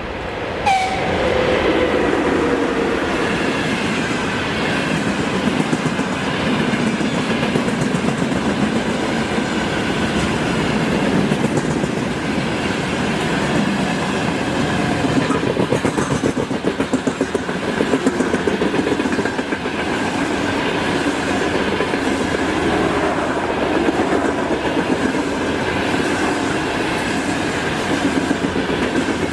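Freight train passing close. About a second in, the locomotive's sound jumps up loudly and drops in pitch as it goes by. After that come the wagons' wheels, clattering in a steady rhythm over the rail joints.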